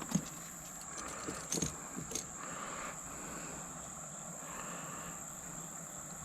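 Crickets and other insects calling in a steady high trill, with a softer pulsing chorus beneath it. A few light knocks and scrapes come in the first two seconds or so, the loudest about a fifth of a second in.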